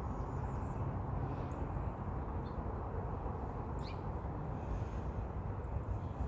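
Outdoor background with a steady low rumble and a few faint, brief bird chirps, one a quick falling note about four seconds in.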